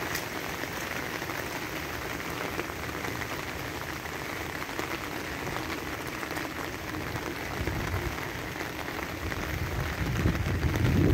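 Heavy rain drumming on an umbrella overhead and pattering on wet pavement, a dense, steady patter of drops. A louder low rumble swells in near the end.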